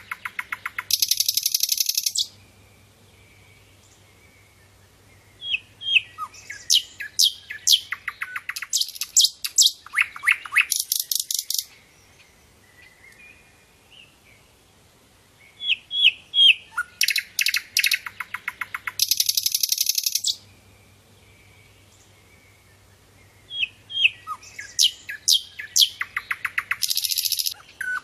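Sikatan londo flycatcher singing: loud phrases of quick, high whistled notes that run into a fast, buzzy trill, repeated about every seven to eight seconds with short pauses between them.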